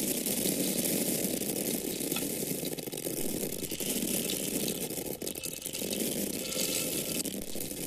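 Dry grains or corn kernels pouring and falling in a steady stream, a continuous dense rattle of many small hard pieces.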